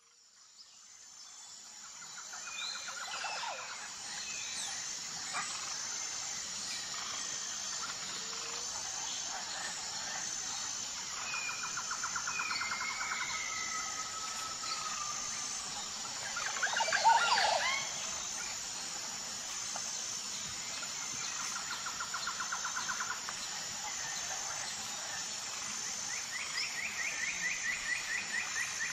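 Songbirds calling in a garden: short trills and chirps over a steady hiss, with a faint high note repeating about once a second. The loudest flurry of calls comes a little past halfway, and the sound fades in over the first few seconds.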